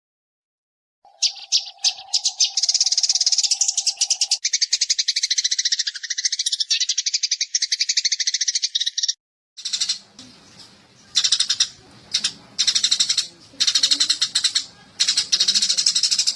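Eurasian tree sparrows (burung gereja) chirping in fast, dense runs of high notes, a songbird tutor recording. The chirping starts about a second in with a steady lower tone under the first few seconds; after a short break about nine seconds in it comes in separate bursts over a low hum.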